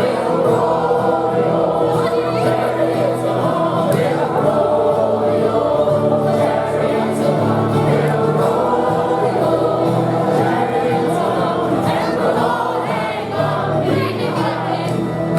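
A group of voices singing a song together in chorus, holding long notes.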